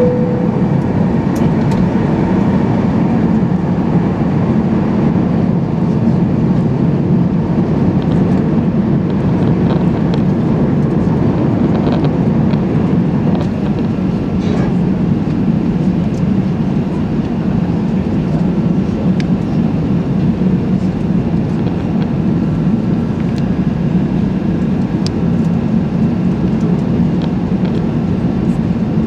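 Steady, loud cabin rumble inside an Airbus A380's lower-deck economy cabin, with a few faint clicks and rattles.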